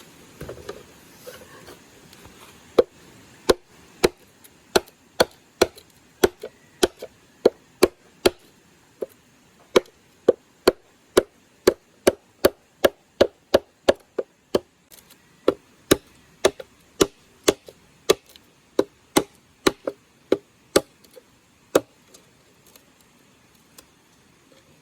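Steady chopping with a blade on wood, about two strikes a second, starting about three seconds in, pausing briefly midway and stopping a few seconds before the end.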